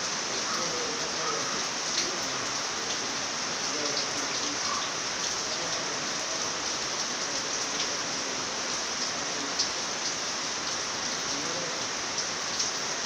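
Steady rain falling, an even hiss with a few sharper drip ticks here and there.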